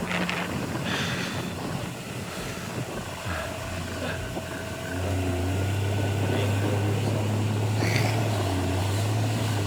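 Outboard motor of a coach boat running under wind and rushing water; its low hum gets stronger and louder about five seconds in as the engine speeds up.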